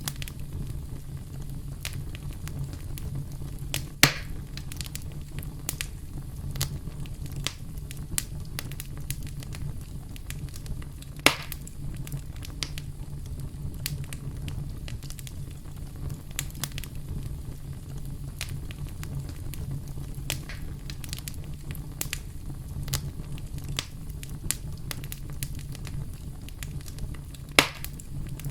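Campfire burning: a steady low rush of flames with scattered crackles and three louder sharp pops from the burning wood, about 4, 11 and 27 seconds in.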